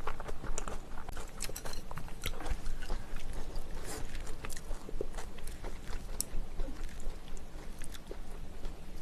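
Close-up eating sounds: a person chewing and biting food, with irregular wet mouth clicks and an occasional crunch.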